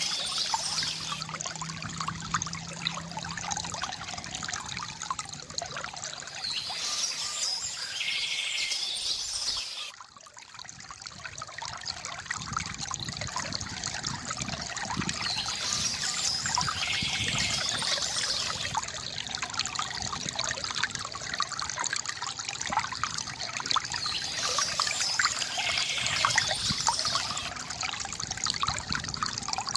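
Water trickling and pouring steadily from a bamboo fountain, with birds chirping three times at intervals of about nine seconds. The water dips briefly in loudness about a third of the way in.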